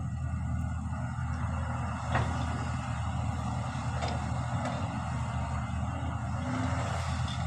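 Excavator's diesel engine running steadily, with a few sharp metal clanks: one about two seconds in, two more around the middle.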